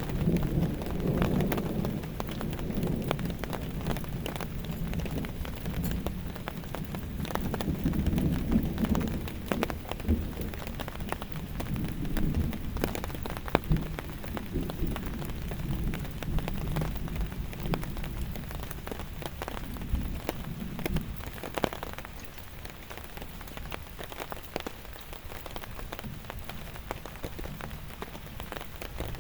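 Heavy rain falling, with many separate drops ticking sharply on a surface. Thunder rumbles low at the start and again a few times before dying away.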